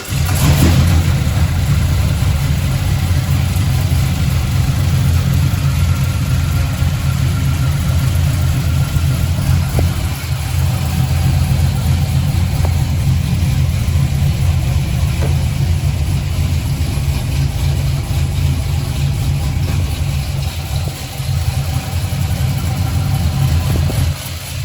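Magnuson-supercharged 6.2-litre V8 (L87) in a pickup truck running loud and steady on a chassis dyno, with a deep, low drone.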